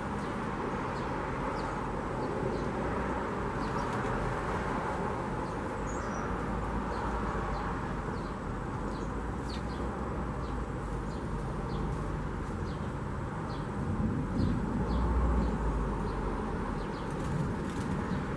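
Small birds chirping in short, scattered high notes over a steady hum of outdoor background noise. A low rumble swells and fades about two-thirds of the way through.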